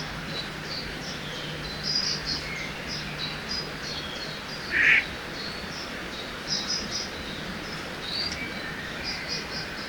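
Forest ambience by a river: many small birds chirping and singing over a steady rush of flowing water, with one louder, harsher call about five seconds in.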